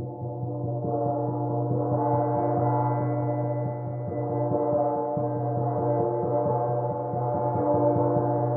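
Titanium gong played continuously, its wash of ringing overtones building in loudness over the first couple of seconds and then held at a steady swell.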